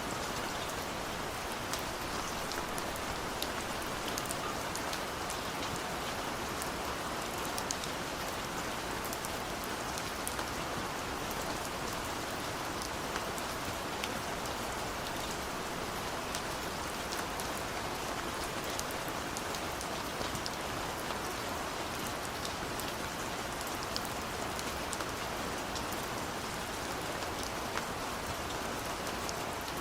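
Steady rain falling, with a constant hiss and many distinct drops pattering and ticking on a surface.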